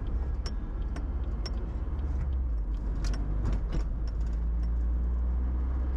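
Car cabin road noise while driving: a steady low engine and tyre rumble, with scattered light clicks and rattles from the interior.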